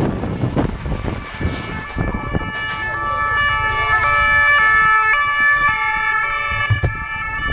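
Police car siren in a stepped, hi-lo style pattern, jumping back and forth between steady pitches. It comes in about two and a half seconds in, over the wind and road rumble of a vehicle moving at speed.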